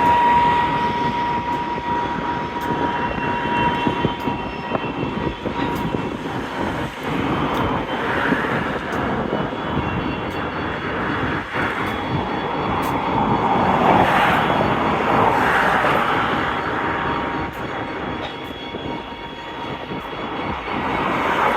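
Freight train rolling through a rail yard: a steady rumbling rush that swells past its loudest about two-thirds of the way in, with a thin wheel squeal fading out in the first couple of seconds and faint clicks.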